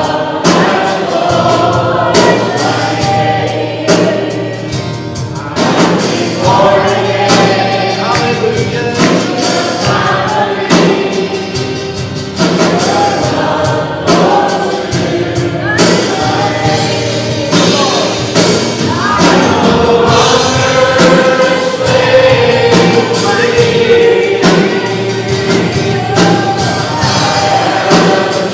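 Worship music: a group of voices singing a gospel-style song over instrumental accompaniment with a steady bass and percussion.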